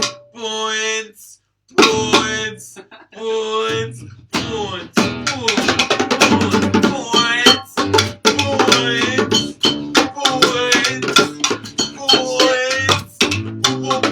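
A small band playing live and unplugged, with guitar and drums. A few short held notes with pauses between them give way, about four and a half seconds in, to the full band playing with a steady drum beat.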